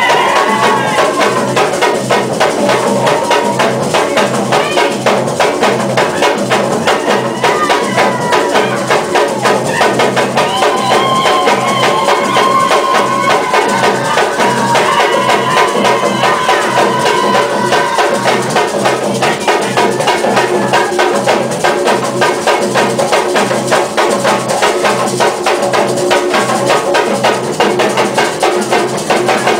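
Afro-Brazilian drum ensemble playing a dense, steady rhythm, with a wavering melody line above the drums.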